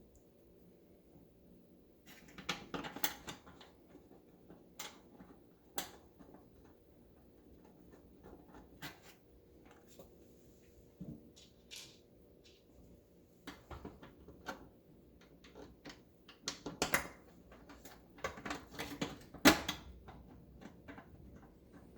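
Scattered clicks, taps and knocks of oven control-panel parts being handled and fitted back in place, in irregular clusters with the loudest knock near the end.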